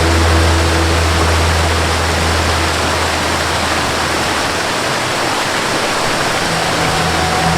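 Waterfall rushing in a steady, dense roar of falling water. Soft held low notes of a melody sound beneath it, fading out after about three seconds and coming back near the end.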